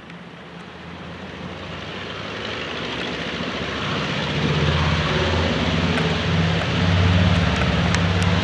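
Fixed-wing airplane's engines growing steadily louder as it approaches, then holding at a loud, pulsing low drone.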